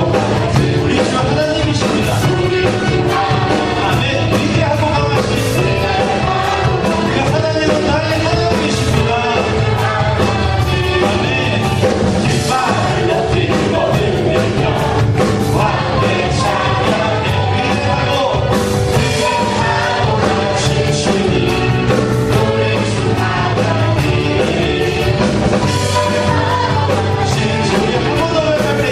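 Praise band playing a worship song, with voices singing over the instruments and a steady beat throughout.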